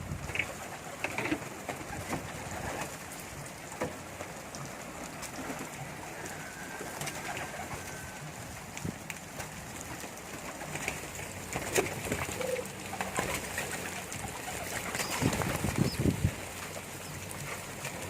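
Domestic pigeons cooing now and then, loudest a little past the middle, over a steady hiss.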